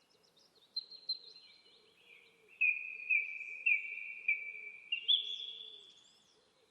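Bell-like ringing notes, struck irregularly at a few different pitches, each starting sharply and fading away.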